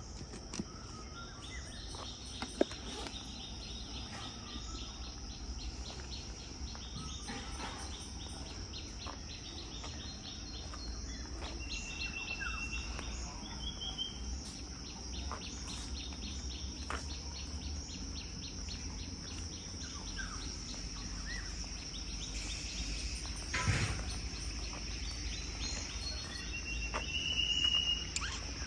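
Outdoor insect chorus: a steady high-pitched drone with a fast, even pulsing chirp running through most of it, and short bird calls several times. There is one sharp click about three seconds in and a low thump a little before the end.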